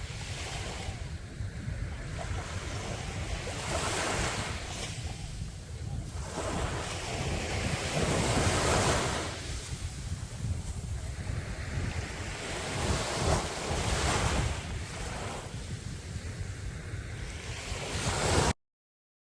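Sea waves breaking and washing ashore in surges every few seconds, loudest about halfway through, with a low wind rumble on the microphone. The sound cuts off suddenly to silence near the end.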